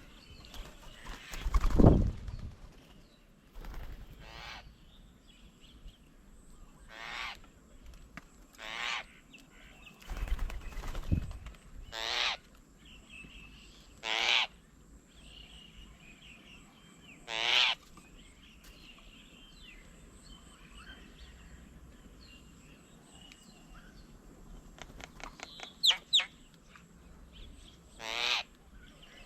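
A bird's short, harsh, rasping call, repeated about six times a few seconds apart. Two low rushing thumps come near the start, and the first is the loudest sound.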